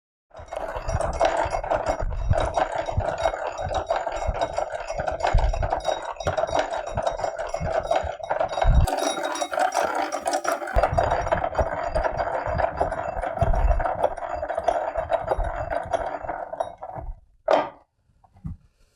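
Hand-powered drill grinding steadily through steel rivets in a cast-iron bread slicer, with irregular knocks as it is cranked. It stops shortly before the end.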